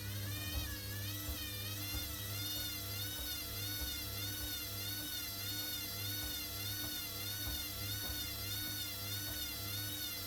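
Hoover WDYNS654D washer-dryer's drum motor whining at high spin, its pitch wobbling up and down about once a second over a steady low hum.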